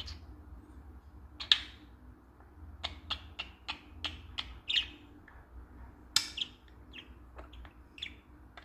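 Pet budgerigar chattering in a string of short, quick chirps at irregular intervals.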